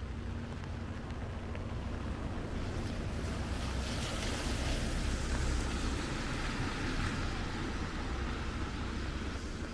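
A vehicle passing on a wet road: tyre hiss swells about two and a half seconds in, peaks in the middle and fades a couple of seconds later, over a steady low rumble.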